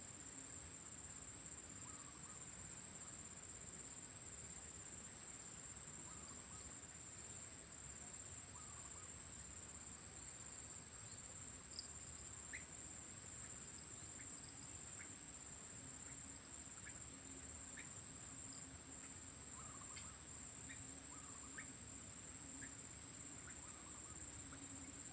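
Faint calls of white-breasted waterhens (ruak-ruak), short notes repeating about every two seconds, over a steady high-pitched insect drone.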